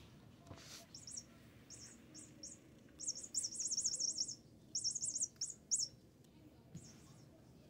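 A small bird chirping: short, very high chirps in bursts, with a fast run of about eight a second around three seconds in and a few single chirps before and after.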